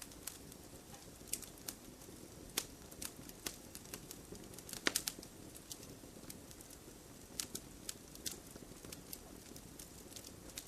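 Wood fire crackling in a fireplace: irregular sharp pops, with a quick cluster of them about five seconds in, over a soft steady hiss.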